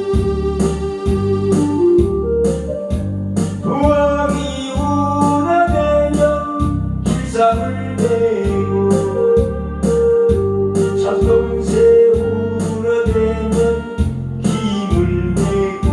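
Instrumental trot backing track playing: an electronic keyboard or organ melody over a steady bass beat.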